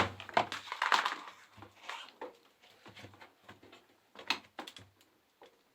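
Hands working the rubber door seal of a Bosch washing machine free from the tub: rubbing and scraping in the first second, then a few scattered clicks and knocks.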